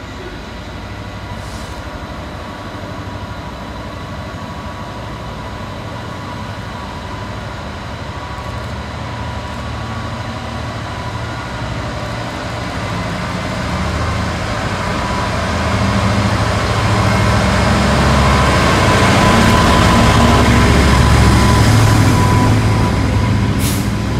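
Class 66 diesel-electric locomotive's EMD two-stroke engine hauling a container freight train toward and past, its low throb growing steadily louder to a peak about twenty seconds in, then easing as the container wagons roll by.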